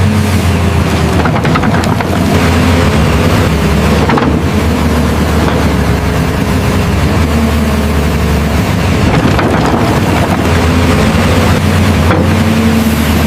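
Remote-control construction vehicle running: a steady engine-like drone with a higher whine above it that wavers in pitch.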